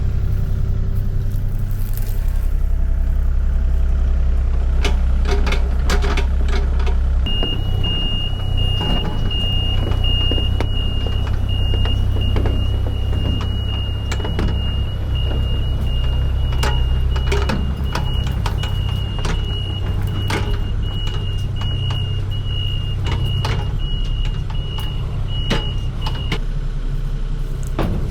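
A vehicle engine running with a steady low rumble, with scattered clicks and knocks. About seven seconds in, a high electronic warning tone starts, slightly pulsing, and keeps going until shortly before the end.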